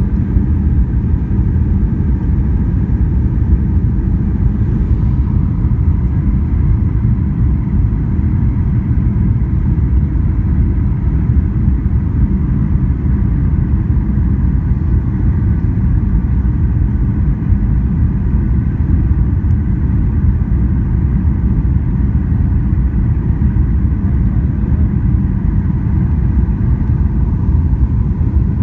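Steady low rumble of airliner cabin noise in flight: jet engines and airflow heard from inside the passenger cabin, with a faint steady hum above it.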